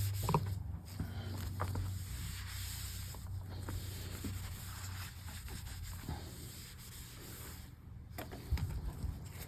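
Cloth rubbing over a MacBook's case as it is wiped clean, a steady scrubbing with a few light knocks from handling.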